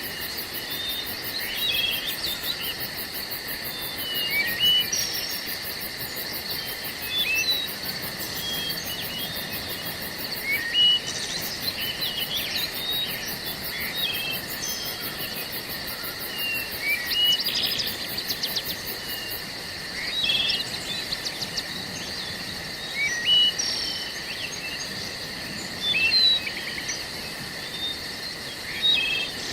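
Forest ambience: a steady chorus of chirping insects, with a fast even pulsing high in pitch, overlaid by many short bird chirps and calls at irregular intervals.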